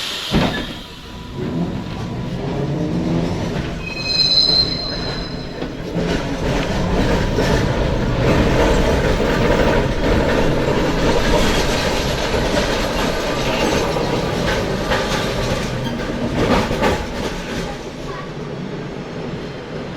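Vintage tram running along its rails, heard from inside: a steady rumble and rattle of wheels on track that swells through the middle. There is a brief high-pitched ring about four seconds in.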